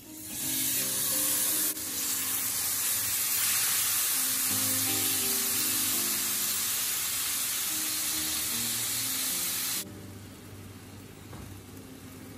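Marinated chicken strips sizzling loudly as they hit a hot frying pan, with the sizzle dropping abruptly to a much quieter frying about ten seconds in. Background music plays underneath.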